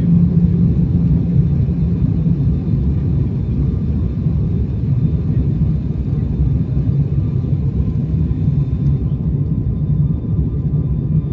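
Airliner cabin noise heard from inside the passenger cabin during the landing: a steady low rumble of engines and airflow with a low hum. The higher hiss drops away about nine seconds in.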